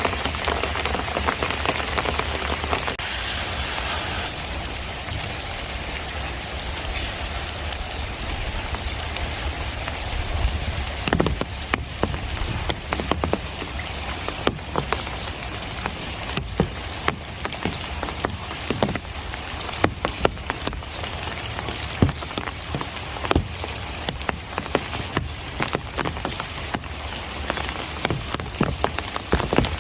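Steady monsoon rain: an even hiss, denser in the first few seconds. From about a third of the way in, many separate drops strike with sharp taps over it.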